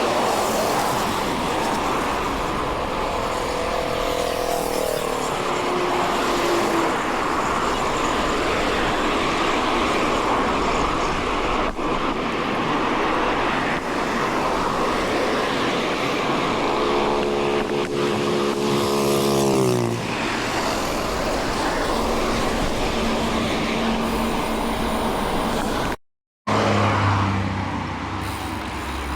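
Steady wind and tyre noise from a bicycle ride along a road. Motor vehicles pass twice, about three seconds in and again around seventeen seconds, their engine note falling as they go by. A short gap of silence comes near the end.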